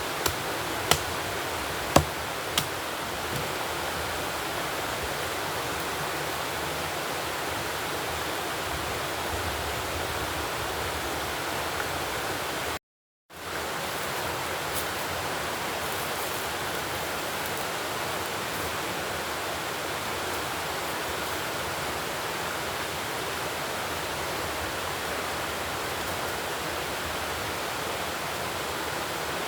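Steady rushing noise, like flowing water, with a few sharp clicks in the first few seconds. The sound cuts out completely for a moment near the middle.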